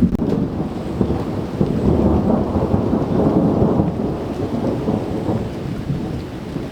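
Thunder from an approaching thunderstorm: a sudden loud clap at the start, then a rolling rumble that swells about two to three seconds in and dies down toward the end.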